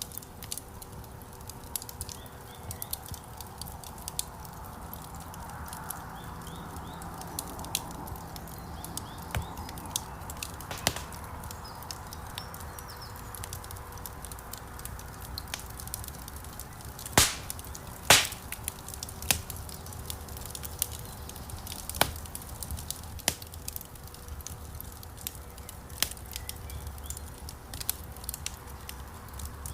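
Wood fire crackling in a fireplace: a steady low hiss with frequent small pops and clicks, and two loud snaps about a second apart a little past the middle.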